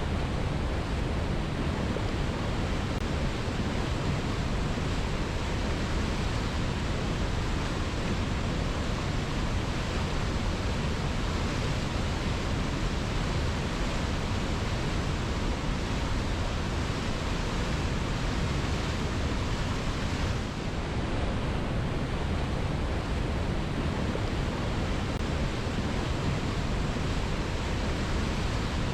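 Waterfall tumbling over rocks: a steady, unbroken rush of falling water.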